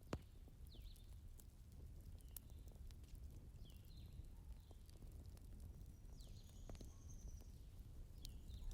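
Quiet wood fire burning in a fireplace, crackling with scattered sharp pops over a low steady rumble; one strong pop right at the start.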